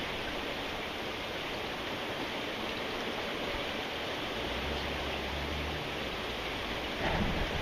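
Steady rain falling, an even hiss. A low hum sounds for about a second and a half past the middle, and a low, uneven rumble comes in near the end.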